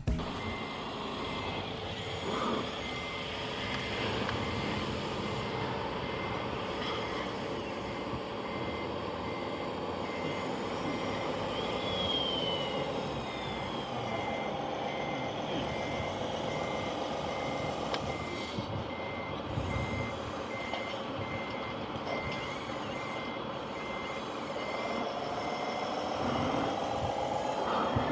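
Radio-controlled Kobelco excavator model running, its electronic warning beep repeating steadily about one and a half times a second over the whine of its small electric motors, with a rising motor whine near the end.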